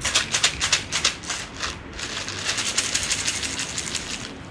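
Dry cat food rattling inside a packet as it is shaken: quick strokes, about five a second, that run together into a continuous rattle after about two seconds.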